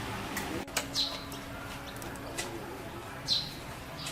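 Bird chirping: short, high, downward-sweeping chirps, once about a second in and again a little past three seconds, with a sharp click shortly before the first chirp.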